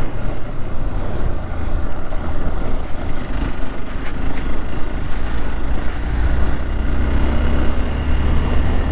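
Motorcycle engine running steadily while riding, heard with road and wind noise. It is a continuous low drone that gets stronger about halfway through.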